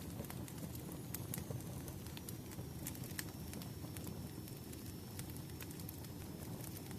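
Wood fire burning briskly: a steady low rumble of flames with irregular sharp crackles and pops from the logs, and a faint thin high whistle through most of it.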